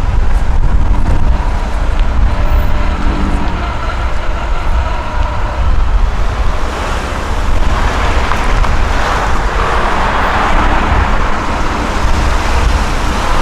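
Wind buffeting the microphone over a steady vehicle rumble, with a swell of passing noise from about seven to twelve seconds in.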